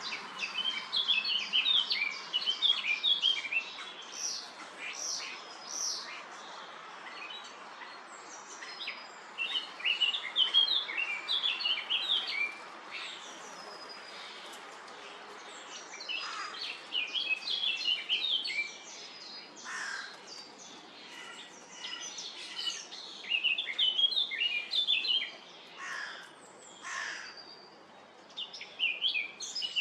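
Songbirds chirping and twittering in repeated bouts of a few seconds each, with short gaps and a few single sharp calls in between.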